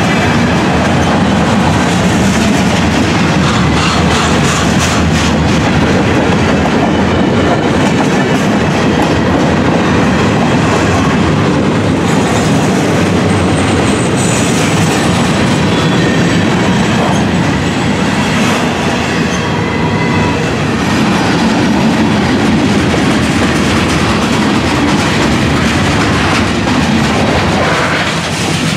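Loaded freight cars, covered hoppers and open hoppers, rolling past close by: a loud, steady rumble and clatter of steel wheels on the rails, with a faint thin squeal around the middle.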